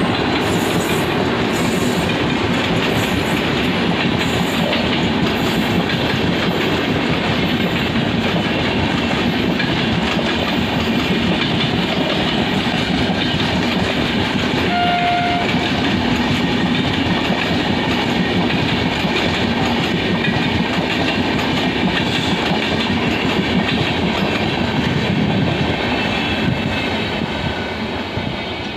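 Coaches of an express train passing at speed without stopping: a steady loud rumble with the clickety-clack of wheels over the rail joints. The sound falls away near the end as the last coach draws off.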